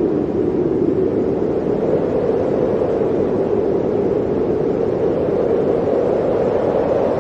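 Blizzard wind blowing steadily, a dense low howl of noise that swells and eases slightly without pause.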